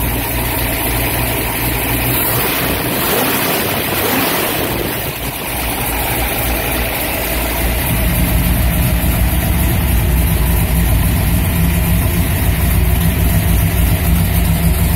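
Chevrolet 409 V8 with twin carburetors running at idle after a cold start. A few seconds in its deep rumble eases and the intake sound rises, then it settles into a steady, even idle.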